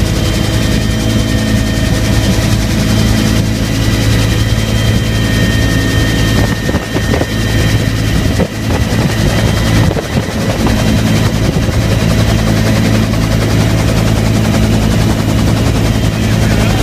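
Bell UH-1 "Huey" helicopter running loud and steady: a low rotor drone with a thin high turbine whine above it.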